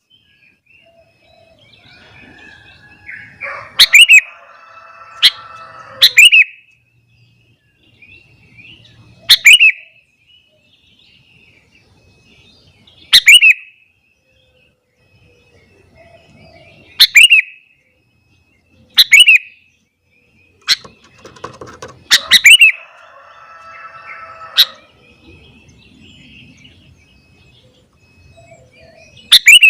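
Sooty-headed bulbul (kutilang) calling vigorously: loud, sharp notes that slide downward, repeated every few seconds. Two stretches of lower warbling song come about three seconds in and again past the twenty-second mark.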